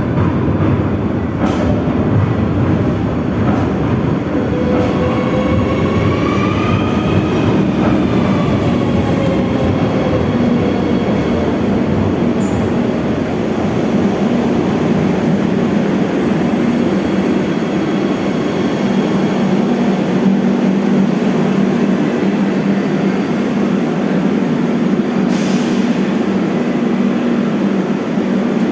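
Madrid Metro Serie 3000 electric train running loudly and steadily on the rails. A whine made of several tones glides up and then down in pitch about six to nine seconds in. A few brief high-pitched sounds cut through the running noise.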